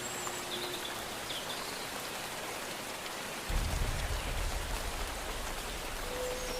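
Steady rain, with a few faint high chirps near the start and a low rumble that sets in suddenly about halfway through.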